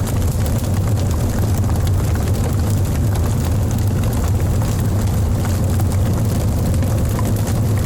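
Wood fire burning in a fireplace: a steady low roar with scattered small crackles and pops from the logs.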